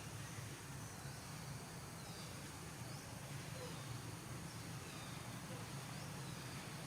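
Faint outdoor ambience: a steady low hum with a few faint, short high chirps scattered through it.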